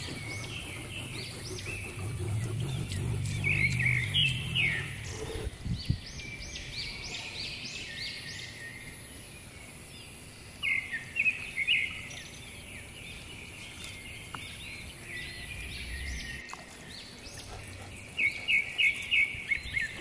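Birds chirping in short runs of quick high notes every few seconds, over a faint low hum.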